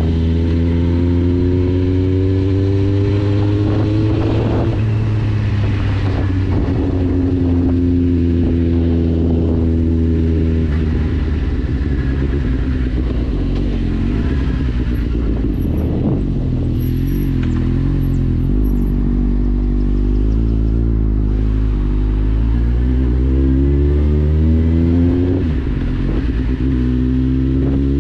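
A 2010 Kawasaki Z750's 748 cc inline-four running through an Akrapovic exhaust with the dB killer removed, under way. The engine note climbs in several long pulls and drops back between them, a little after 4 s, near 10 s and about 25 s in. Through the middle it holds a lower, uneven note before pulling up again.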